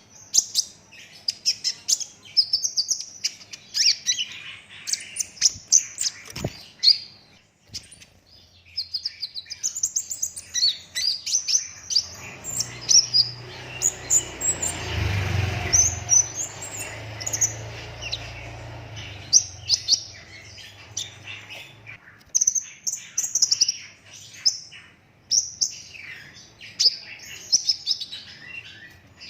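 Kolibri ninja sunbird (olive-backed sunbird) singing a fast, continuous twittering song of high, rapid-fire chirps and trills, the 'tembak rapat' style of a bird in full song. For several seconds in the middle a low hum and rushing noise sits under the song.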